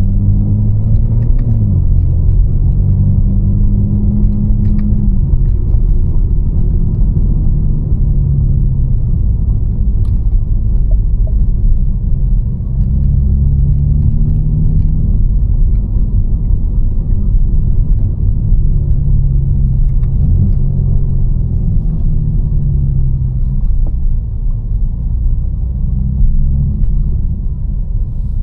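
Catless, tuned BMW M4 Competition's twin-turbo inline-six running at low revs while driving, a deep steady rumble whose pitch rises and falls gently with the throttle.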